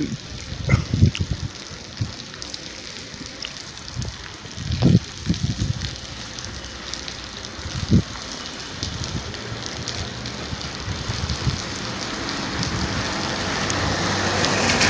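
Steady rain hissing and pattering on a wet street, with wind gusting on the microphone in low rumbling buffets about a second, five seconds and eight seconds in. The rain noise grows louder near the end.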